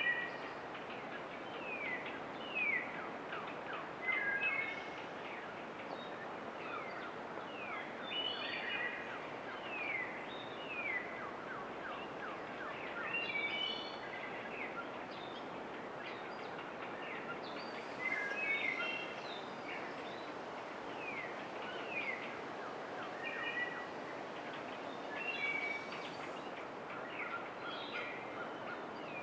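Several songbirds calling and singing, with short downward-sweeping whistles and chirps coming in clusters every second or two, over a steady rushing hiss.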